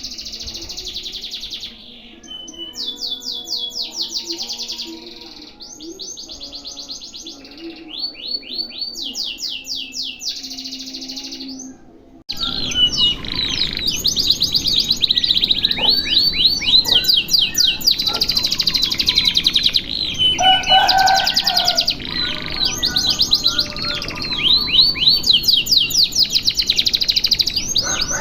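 Domestic canary singing long, fast rolling trills of rapidly repeated high notes, phrase after phrase. About twelve seconds in, the recording cuts abruptly to a louder one with more background noise.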